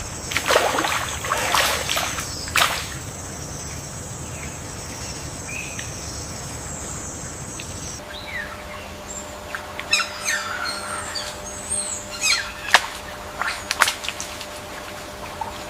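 Mangrove wetland ambience: water splashing under a steady high whine. About halfway through it changes to birds chirping in quick rising and falling calls, with sharp splashes or clicks.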